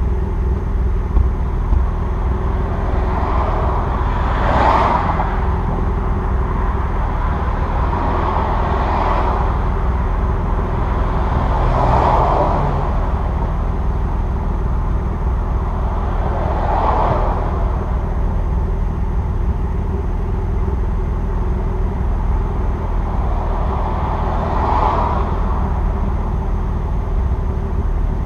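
A Nissan VQ35DE 3.5-litre V6 idling steadily with a low rumble, warming up after a cold start, heard through aftermarket equal-length headers, the stock catalytic converter and a muffler with the resonator deleted. A broad hiss swells and fades five times over it.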